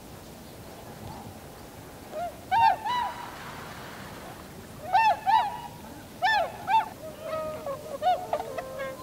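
Tundra swans calling: loud, arched honking calls in quick pairs and clusters beginning about two seconds in, then several birds calling together more softly near the end.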